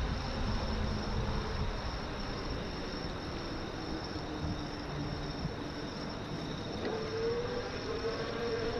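Steady wind and road noise on a GoPro riding an e-bike, with the fading tones of a passing train's horn at the very start. A new wavering pitched tone comes in about seven seconds in.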